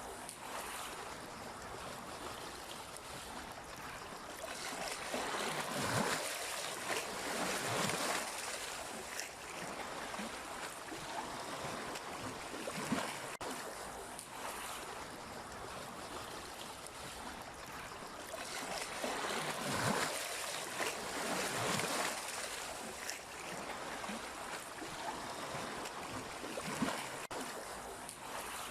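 Sea waves washing onto the shore: a steady rush of water with louder swells every few seconds, strongest about a quarter of the way in and again past two-thirds.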